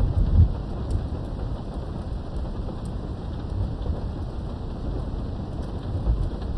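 Steady rain with a low rolling rumble of thunder, heaviest at the start and easing off after about half a second, with scattered drop ticks, heard from indoors behind a window.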